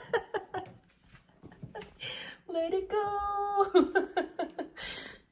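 A young child vocalizing in short babbled sounds, with one longer held sung note about three seconds in.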